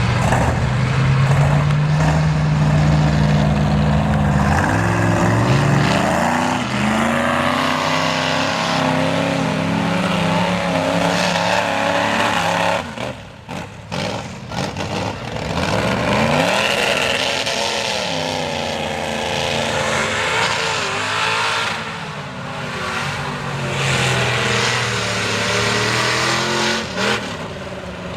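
Big mega truck engine revving hard through a mud bog, its pitch climbing and falling as the throttle is worked. The sound dips briefly about halfway through.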